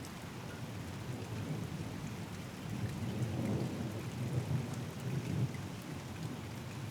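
Steady rain falling, with scattered drop ticks, under a low rolling rumble of thunder that swells about three seconds in and fades again.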